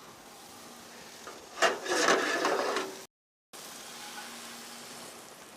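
A scraping, rubbing noise lasting about a second and a half, then a brief moment of dead silence.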